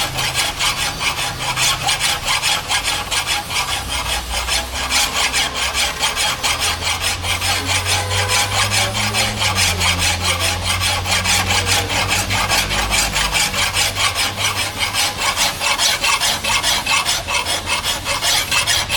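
A hand file rasping on the steel of a forged axe head in a rapid, even rhythm of strokes.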